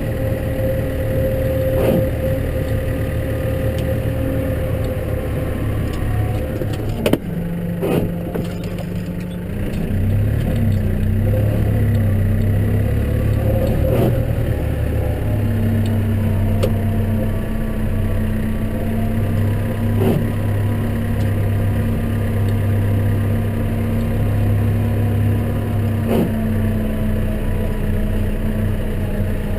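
Case tractor's diesel engine running steadily while ploughing snow, heard from inside the cab. Its note changes about a third of the way in and then holds steady, with a few sharp knocks scattered through.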